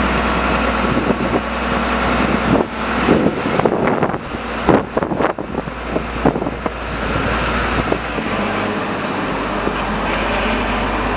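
A vehicle engine running steadily, with a series of metal clanks and knocks between about two and six seconds in.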